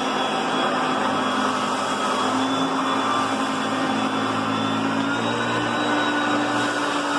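Hoover Concept One upright vacuum cleaner running steadily, a motor hum with a high whine over the rush of air; the hum shifts slightly higher about five seconds in.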